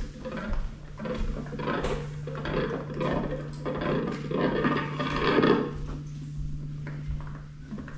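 Group free improvisation on found objects and instruments: irregular scraping, rubbing and clattering that thickens toward the middle and thins out about five and a half seconds in, over a steady low hum.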